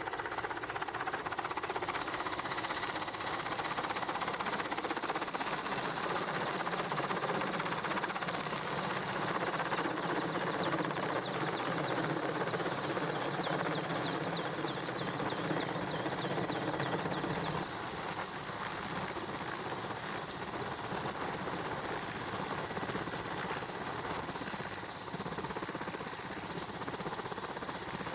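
Mi-8 helicopter's rotor and turbine engines running steadily with a high whine as it comes in to land on the ship.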